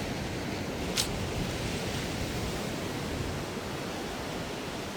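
Steady wash of ocean surf, heard as an even rushing noise, with one short high hiss about a second in.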